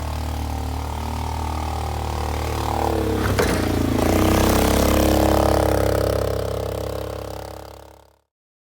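Polaris 500 HO ATV's single-cylinder four-stroke engine running, with a brief clatter about three and a half seconds in as the engine note shifts and grows louder. The sound fades out near the end.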